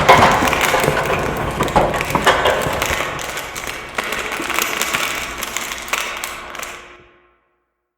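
A long crash of breaking and clattering debris, many knocks and cracks over a rushing noise, dying away and stopping about seven seconds in.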